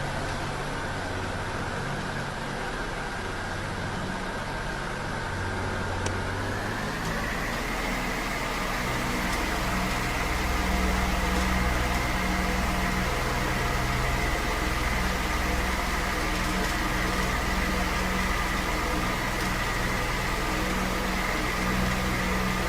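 Ventura 60 cm wall fan running with a steady hum and air noise. About six seconds in its tone rises in pitch as it speeds up, then holds steady at the higher speed.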